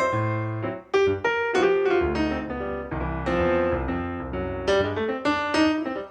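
Background piano music, a steady flow of struck notes over lower bass notes.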